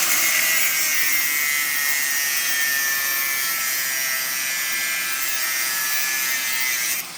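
Power cutter, most likely an angle grinder with a cut-off wheel, slicing through steel flat bar. It gives a loud, steady, hissing whine whose pitch slowly falls as the wheel bogs under the cut, then it cuts off sharply near the end. He cuts only partway so the bar can be snapped off without pinching the blade.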